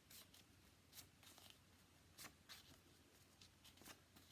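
Near silence: quiet room tone with a handful of faint, short ticks and rustles.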